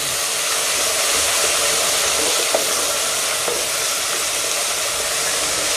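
Ginger-garlic paste sizzling in hot oil with cumin seeds, curry leaves and dried red chillies, stirred with a wooden spoon as it browns: a steady frying hiss with a couple of faint ticks.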